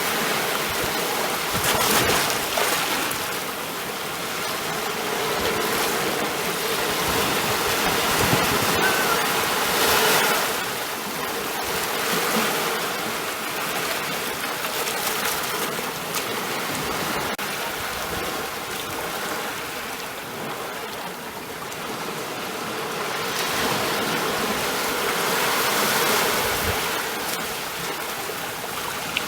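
Ocean surf: a continuous wash of breaking waves that swells and eases, with louder surges about two seconds in, around ten seconds and near the end.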